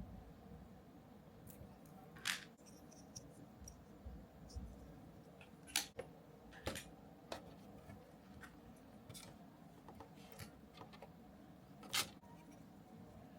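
Small parts and hand tools being handled while a 1/14 scale RC truck kit is assembled: a dozen or so sharp, irregular clicks, loudest about two, six and twelve seconds in.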